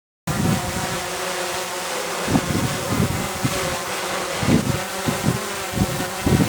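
DJI drone's motors and propellers buzzing steadily while it hovers, working to hold position in strong wind. Wind gusts buffet the microphone in irregular low rumbles. The sound cuts in suddenly just after the start.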